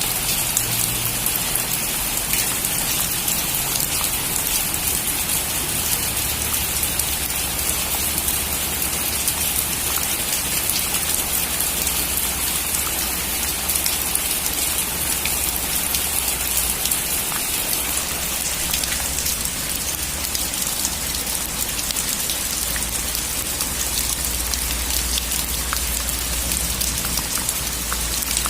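Heavy rain falling steadily on a metal roof, a dense even hiss with individual drops ticking through it.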